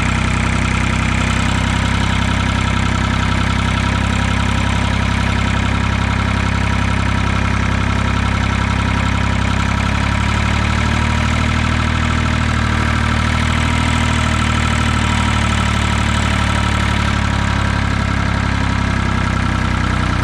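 Ford 2000 tractor's diesel engine running steadily, its note shifting slightly about halfway through.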